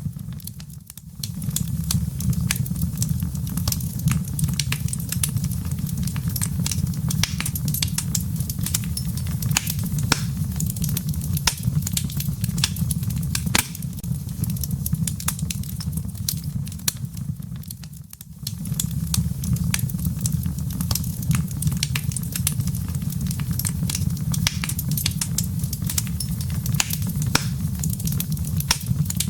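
Wood fire crackling in a fireplace: frequent sharp pops and snaps of burning logs and embers over a steady low rumble. The sound dips briefly about a second in and again around eighteen seconds.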